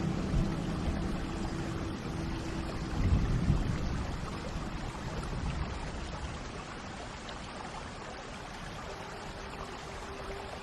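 Steady rain with a low rumble of thunder that swells about three seconds in and then dies away. Soft music tones sound faintly underneath at the start and again near the end.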